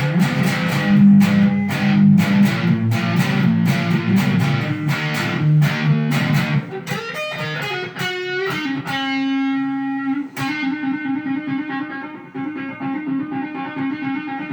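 Guitar playing the closing instrumental of a song: quick strummed chords for about seven seconds, then lighter picked notes ringing over a held chord, getting quieter toward the end.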